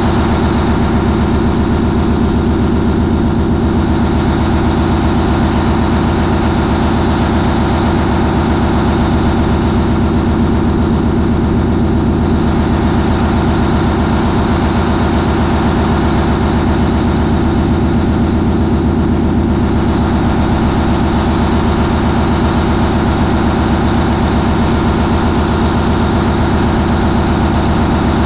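MAN 20V28/33D STC twenty-cylinder V diesel, a ferry's main propulsion engine, running steadily at 940 RPM.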